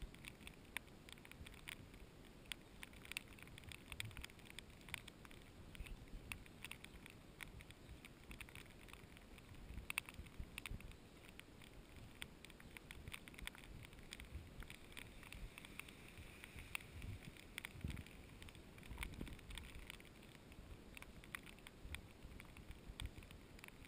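Faint light rain: scattered raindrops ticking irregularly on the camera, over a soft hiss of rainfall.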